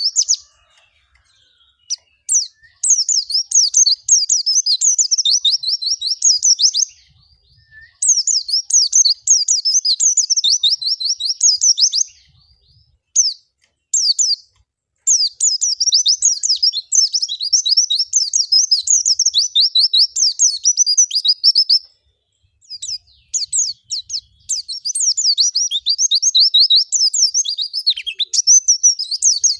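White-eye (pleci) singing long, rapid, high twittering phrases of several seconds each, broken by short pauses near the start, about a third of the way in, around the middle, and about three quarters through.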